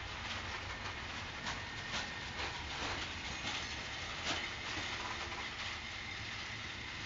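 Freight train of flat wagons loaded with steel rails rolling past, its wheels clicking irregularly over the rail joints above a steady rumble, with a faint thin high whine in the second half.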